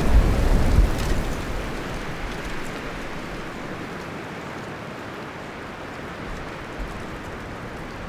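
Wind rustling through the leaves and branches of a forest. A strong gust, with low rumble, comes in the first second or so, then eases to a steadier, softer rustle.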